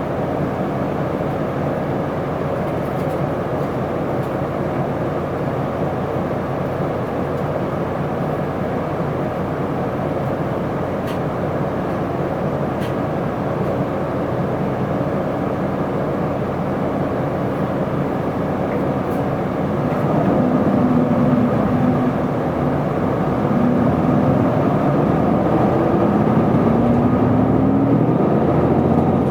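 Isuzu Erga city bus's inline-six diesel engine heard from inside the cabin, running with a steady drone. About twenty seconds in it grows louder, and the engine tone rises in pitch several times as the bus accelerates.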